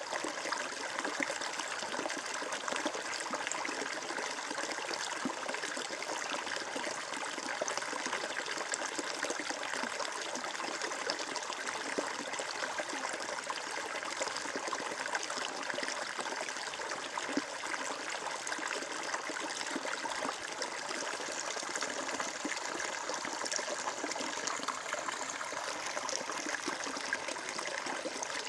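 Water flowing and trickling steadily over stones in a stream, an even babbling with no breaks.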